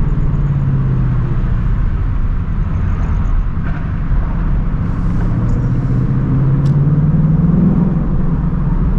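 2024 Ford Mustang GT's stock 5.0-litre V8 running through its active exhaust at cruise. About five seconds in the engine note climbs steadily as the car accelerates, then drops back near the end.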